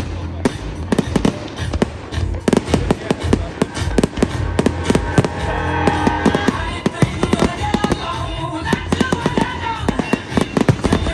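Fireworks display: a rapid, dense run of bangs and crackles, many shells going off in quick succession.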